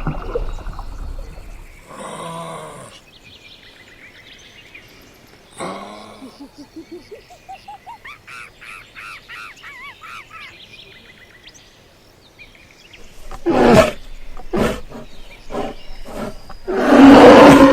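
A series of different animal calls, one after another: short pitched calls, a run of quick repeated rising notes in the middle, and loud calls near the end, the last being the loudest.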